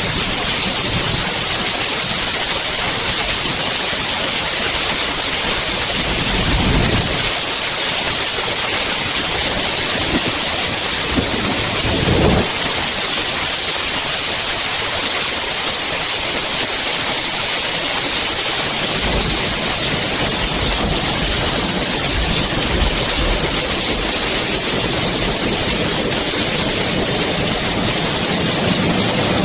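Heavy rain falling steadily, a dense even hiss. Two brief low rumbles of distant thunder come through it, about a quarter and about halfway through.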